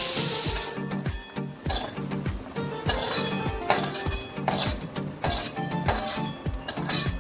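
Food frying in a pan with a loud sizzling hiss that cuts off about half a second in. A utensil then stirs and clinks in the pan over background music with a steady beat.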